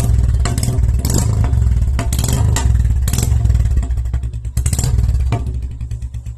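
Motorcycle engine running with a steady, low, even beat, joined by several short, sharp clattering noises.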